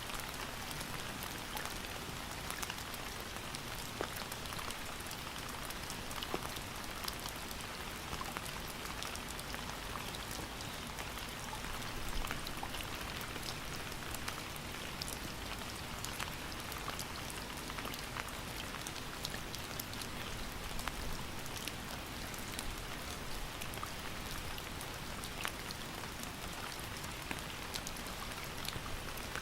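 Steady rain falling, with a constant hiss and many distinct drops ticking on a surface.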